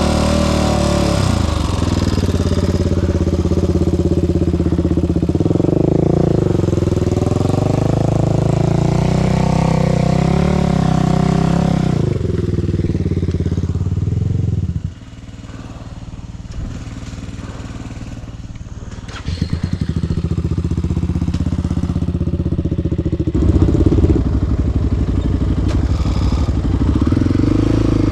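A quad's single-cylinder four-stroke engine revving hard under load in first gear, its pitch rising and falling as the rider rocks the ATV to climb through a rough spot. About 15 seconds in it drops suddenly to a low, slow running, then revs up again a few seconds later.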